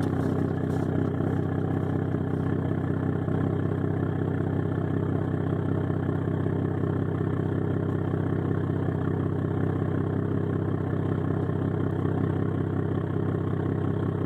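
A 2012 Ford F-150's 3.5-litre twin-turbo EcoBoost V6 idling steadily through a 4-inch straight-pipe exhaust with catted downpipes.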